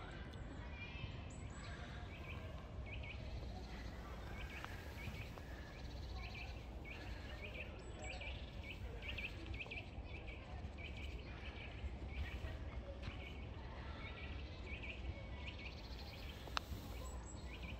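A bird calling outdoors, repeating short high chirps about twice a second, over a steady low background rumble. A single sharp click comes near the end.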